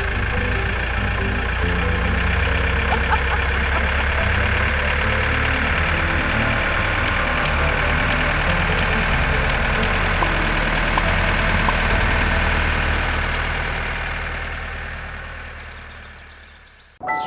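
Engine running steadily, with a few light ticks in the middle, then fading out over the last few seconds.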